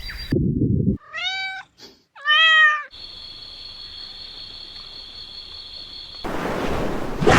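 Domestic cat meowing twice, about a second apart, the second meow louder. It is followed by a faint steady high-pitched whine.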